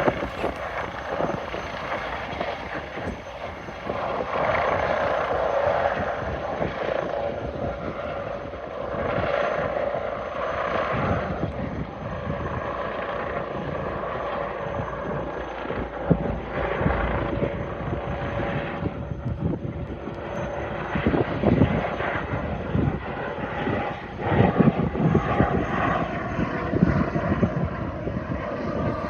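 Helicopter running, its turbine engine giving a steady whine over the rotor's uneven, surging noise; the whine falls a little in pitch near the end.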